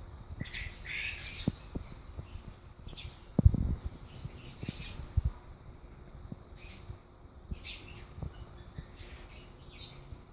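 Lovebirds giving short, high-pitched chirping calls at irregular intervals, with scattered low knocks and one loud thump about three and a half seconds in.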